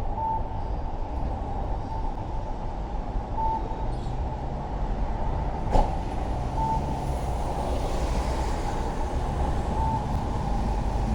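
Steady rumble of wind and road noise from a road bike being ridden through traffic, with a short high beep about every three seconds and one sharp click about halfway through.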